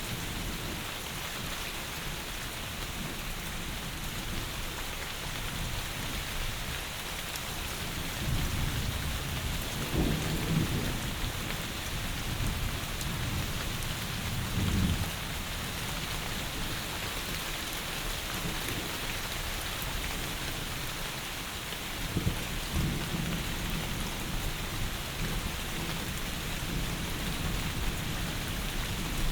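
Heavy rain falling steadily, with low rolls of thunder about a third of the way in, again near the middle, and once more about three quarters of the way through.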